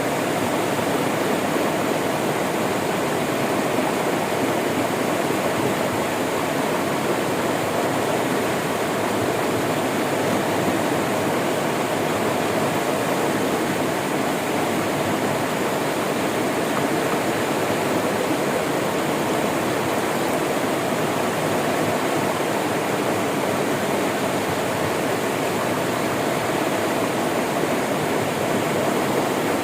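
River water flowing in a steady, even rush with no separate splashes or breaks.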